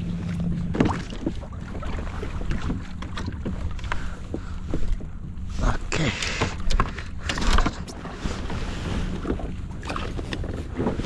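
A kayak on open water with wind on the microphone and water slapping the hull. There are irregular knocks throughout and two louder splashing surges about six and seven and a half seconds in.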